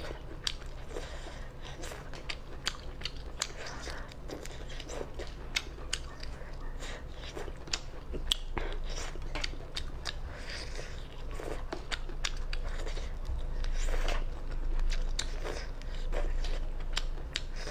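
Close-up eating sounds of a person biting and chewing spicy crayfish tails, a steady run of small mouth clicks and smacks.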